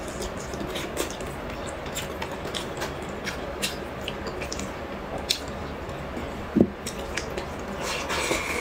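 Close-up mouth sounds of chewing braised pork ribs: many short wet clicks and smacks. There is one louder thump about two-thirds of the way through, and a brief noisier stretch near the end as she bites into a rib from the bowl.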